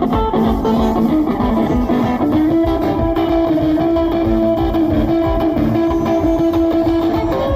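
Live band music in an instrumental break of a boogie song: an electric guitar lead holding a long sustained note from about two seconds in, over the band's rhythm.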